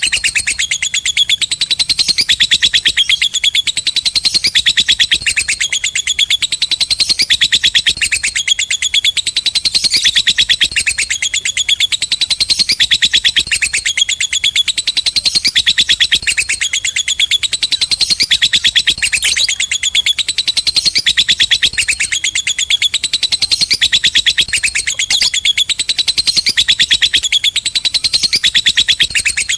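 Lovebird's long, unbroken chattering trill (the 'ngekek panjang' prized by fanciers): a rapid stream of high, shrill notes that swells and dips about every two seconds.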